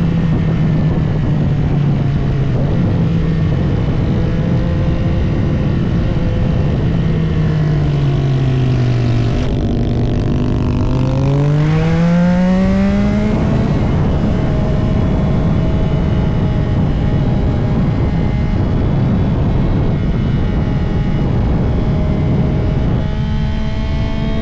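CFMOTO 675SR-R's inline three-cylinder engine running at steady revs over a constant wind rush. The revs drop away for a few seconds about eight seconds in as the bike slows, then climb steeply around twelve seconds in as it accelerates, and the note settles steady again.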